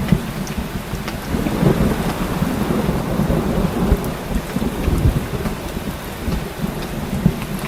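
Heavy rain falling steadily, with deep rolling thunder rumbling underneath that swells for a few seconds and then eases off.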